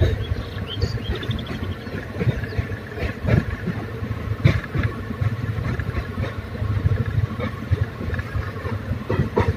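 Passenger train running along the track, heard from inside a coach at an open window: a steady low rumble from the wheels and running gear, with irregular knocks and rattles, the sharpest a little after three seconds, at about four and a half seconds and near the end.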